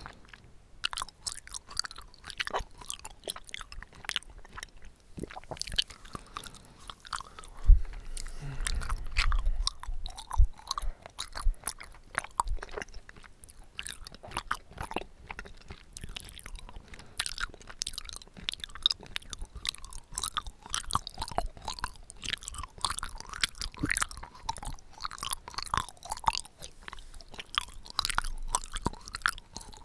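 Close-miked chewing of bubble tea tapioca pearls: a steady run of short wet clicks and smacks. A single low thump about eight seconds in is the loudest sound.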